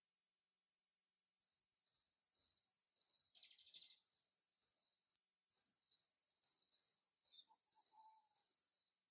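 High, thin chirping in repeated short bursts at one steady pitch, starting about a second and a half in, with a few lower, fainter notes near the end.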